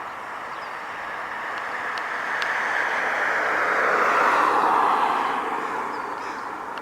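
A car driving past, swelling to its loudest about four seconds in and then fading away, its tyre noise dropping in pitch as it goes by.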